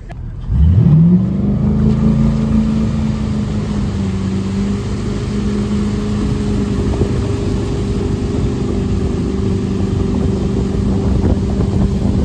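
Motorboat engine opening up hard about half a second in, its pitch climbing quickly, then running steadily at high revs with the rush of water and wind underneath.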